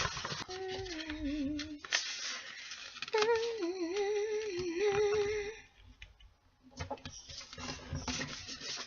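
A woman humming a tune in two short phrases while a sheet of paper crinkles and rustles as it is folded into an origami bird base.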